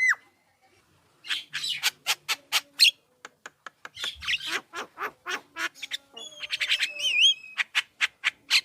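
Javan myna (jalak kebo) singing: after a brief pause, a fast run of harsh clicking, squawking notes, broken by a few clear whistled notes about seven seconds in.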